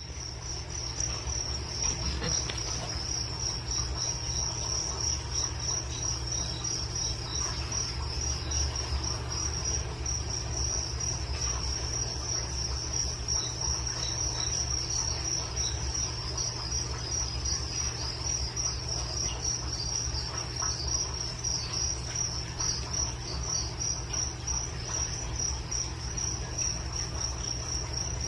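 Crickets chirping continuously in a high, rapidly pulsing trill, over a steady low hum.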